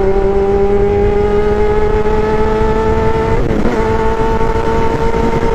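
Motorcycle engine held at high revs, its pitch creeping slowly upward, with a brief dip and recovery about three and a half seconds in. A second, lower steady engine note runs underneath.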